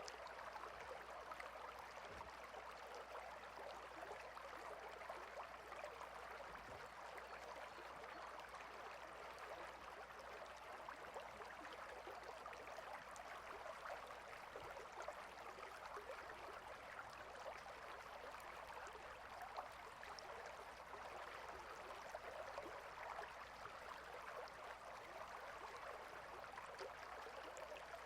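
A stream of running water flowing steadily, a faint even rush with small flickers of splashing detail.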